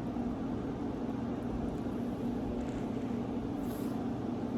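Steady low hum with hiss: room tone in a small room.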